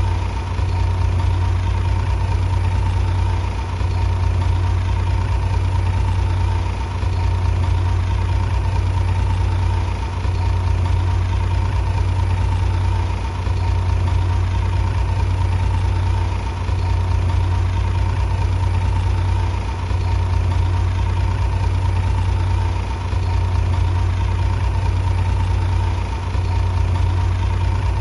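Heavy diesel bulldozer engine running steadily with a deep hum, dipping briefly at an even beat about every three seconds.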